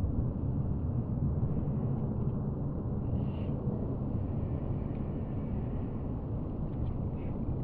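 Steady low rumble of the Panavia Tornado's Turbo-Union RB199 jet engines after landing, heard from a distance.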